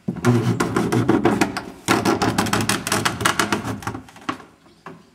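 A rapid, loud clatter of knocks and rattles that lasts about four seconds and then stops suddenly, with a couple of single knocks afterwards.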